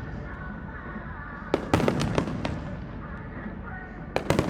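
Aerial fireworks shells bursting: a quick string of sharp bangs about a second and a half in, and another cluster near the end, each trailing off in a low rumble.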